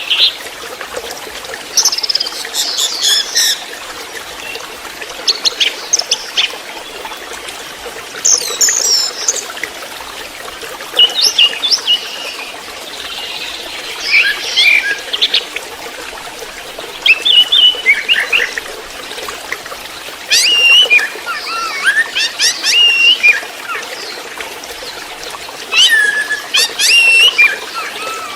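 Orange-headed thrush (anis merah) singing in the 'trotol' style: short bursts of quick, stuttering, sharply gliding notes, each about a second long and repeated every two to three seconds, some running longer near the end. A steady trickle of running water plays underneath.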